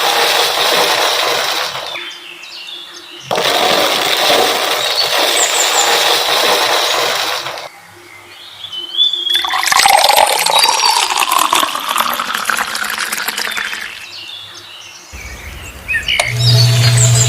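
Rushing, splashing water in stretches of a few seconds that cut off suddenly, with faint chirps above it. A steady low hum starts near the end.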